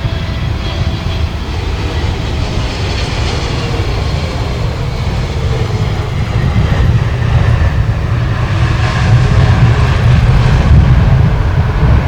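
Jet airliner arriving, its engines rumbling and growing louder toward a peak near the end.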